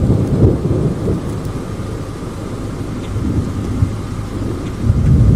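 Thunder rumbling low and deep from nearby lightning. It eases off in the middle and builds again near the end.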